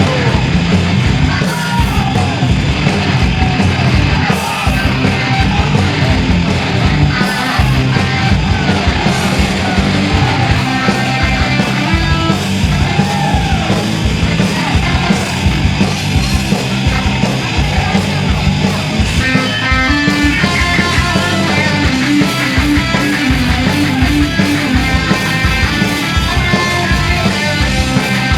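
Live punk band playing a fast, loud song: electric guitars, bass and drums driving a steady beat, with shouted vocals over the top.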